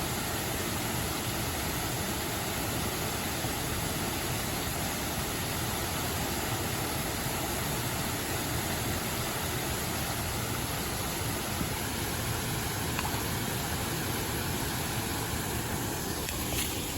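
Steady rushing of a mountain stream, with a few light clicks near the end.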